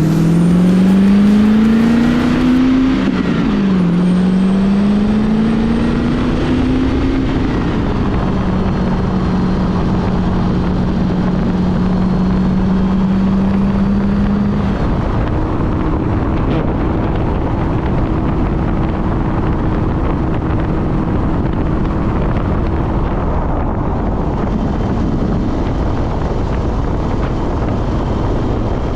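LS7 V8 of a custom C2 Corvette roadster pulling hard, its note rising, dropping at a gear change about three seconds in, rising again, then settling at steady cruising revs with road and wind noise. About halfway through the engine note steps up and holds steady.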